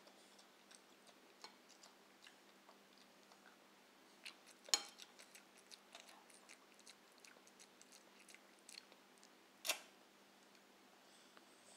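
A child chewing noisily with the mouth open, making soft, irregular wet smacking clicks. There are two much louder smacks, one near the middle and one about two-thirds of the way through.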